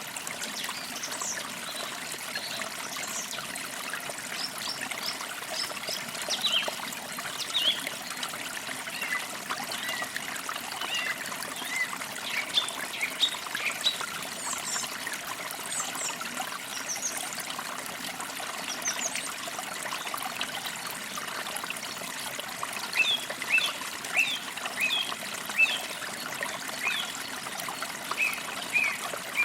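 A forest creek trickling and babbling steadily, with songbirds chirping in short, repeated calls over it.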